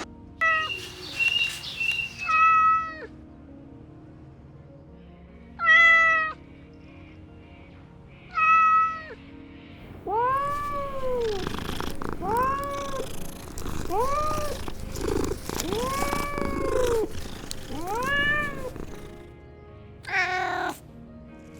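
Kittens meowing: a few short high meows spaced through the first nine seconds, then a run of about eight lower, rising-and-falling meows one after another, and one more meow near the end.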